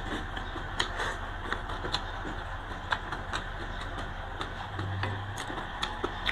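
Close-miked eating sounds: a person chewing boiled greens and rice, with small wet mouth clicks scattered irregularly over a steady low hum.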